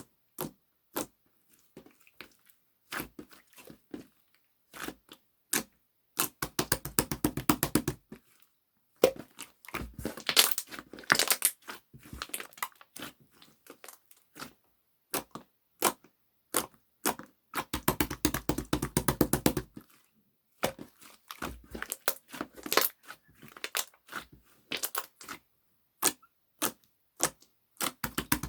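Bursts of crinkling and tearing, a few seconds each, between scattered sharp taps and clicks, as from hands handling paper or plastic close up.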